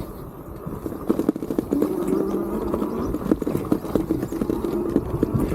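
Fat-tire full-suspension e-bike jolting over very rough ground: a steady low rumble with rapid, irregular knocks and rattles.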